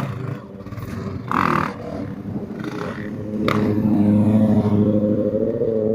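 Car engine running with a steady drone that gets louder and rises slightly in pitch about three and a half seconds in, with a sharp click at the start and another at that point.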